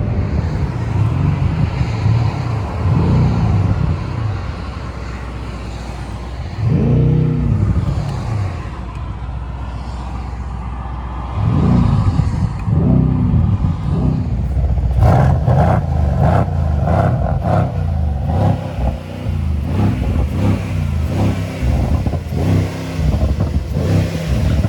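Mercedes-AMG C63 S twin-turbo V8 engine revving up and falling back several times as it accelerates through the gears. From about halfway on there is a run of sharp, quick clatter over the engine.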